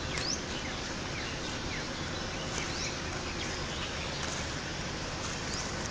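Outdoor ambience: a steady background hiss with many brief bird chirps scattered throughout.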